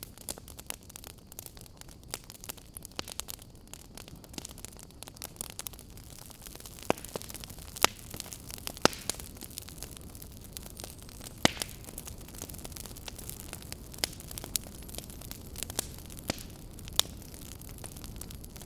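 Wood fire burning: a steady low hiss with frequent crackles and snaps, a few sharper pops standing out in the middle and latter part.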